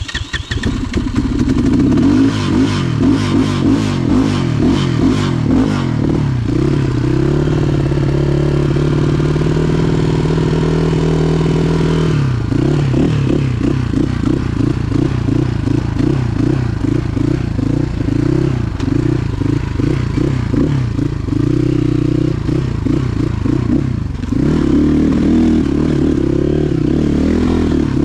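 Motorcycle engine running just after starting. Its revs are held up for several seconds, drop back to an uneven idle about twelve seconds in, and rise again near the end.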